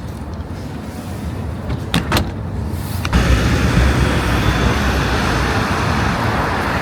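A low, steady rumble of vehicle or traffic noise. Two sharp clicks come about two seconds in, and about a second later the rumble turns suddenly louder and fuller and stays that way.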